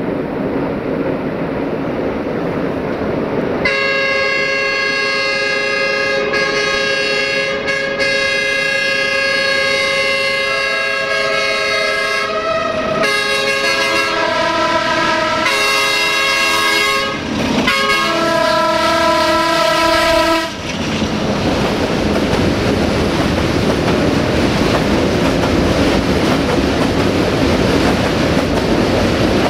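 A train horn blows long, a chord of several notes that changes pitch several times with brief breaks, and stops about 20 seconds in. Before and after it, the train's running noise and the clacking of its wheels over the rail joints can be heard.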